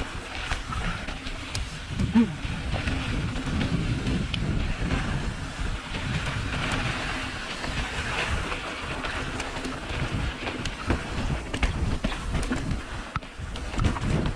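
Steady low rumble of riding over a rough trail, with scattered clicks and rattles throughout and wind buffeting the microphone.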